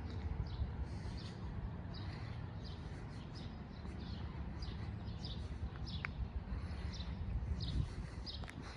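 A small bird chirping over and over, with short high chirps about every half second, over a steady low rumble.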